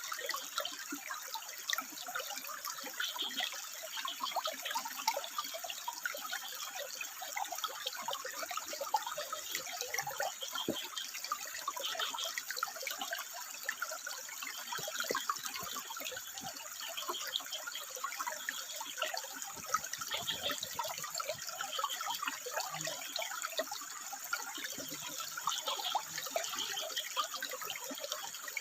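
Water trickling and splashing over rock, steady throughout. Short high calls, which the title puts down to frogs, recur faintly every couple of seconds.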